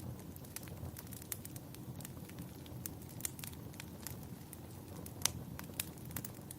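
Wood fire burning in a fireplace: irregular sharp crackles and pops, the loudest pop a little after five seconds in, over a steady low rumble.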